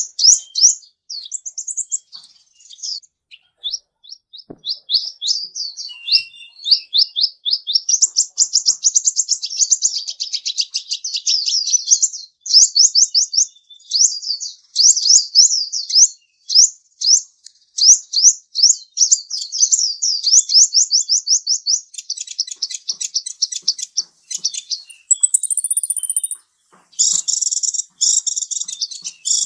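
Small bird chirping in long, rapid runs of quick, high notes, with a brief higher held note near the end.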